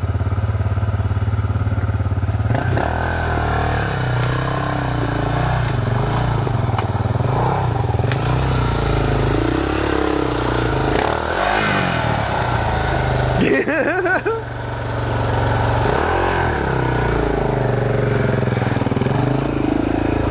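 Dirt bike engine running and revving up and down as it is ridden off-road, its pitch rising and falling, with a brief drop and a sharp rev about two-thirds of the way through.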